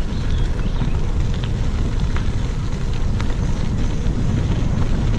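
Wind buffeting the microphone of a cyclist riding along, a loud steady low rumble, with a few faint high chirps near the start.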